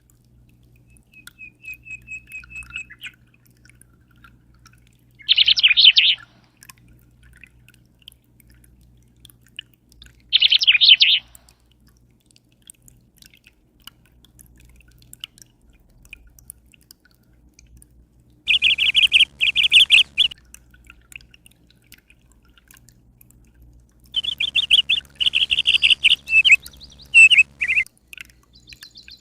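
A small bird chirping in rapid, trilled bursts: a faint trill at first, then four loud bouts, the last one longest and broken into several phrases. A faint low hum runs underneath.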